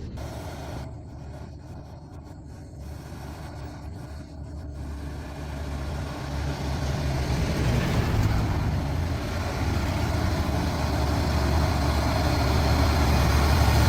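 Heavy Hyundai Xcient semi-truck's diesel engine running under the load of a lowboy trailer carrying two excavators. It draws nearer, growing steadily louder from about six seconds in, with road noise above the low engine sound.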